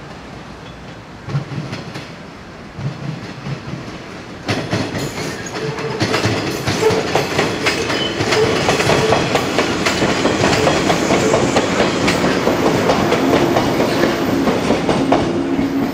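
JR West 115 series electric train approaching and passing close by, its wheels clattering over the rail joints. Faint at first, it grows loud from about four and a half seconds in and stays loud, with a steady running hum under the clatter.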